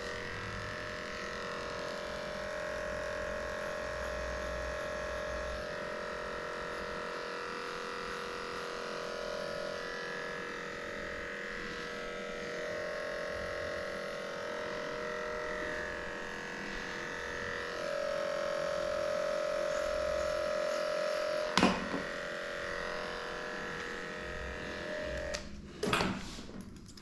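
Electric dog grooming clippers running with a steady hum as they shave off a matted coat. The hum grows louder for a few seconds past the middle, with a sharp click a little later. It stops about a second and a half before the end, followed by a couple of knocks.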